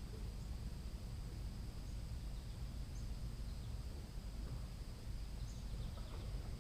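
Outdoor ambience: a steady low rumble with a continuous high-pitched hum, like insects, and a few faint short bird chirps.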